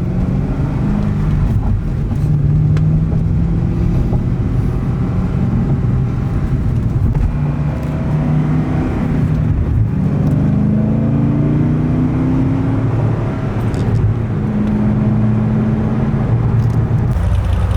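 Chevrolet Corvette V8 engine under way, pulling up in pitch and dropping back several times as it shifts up through the gears, with steadier cruising stretches in between.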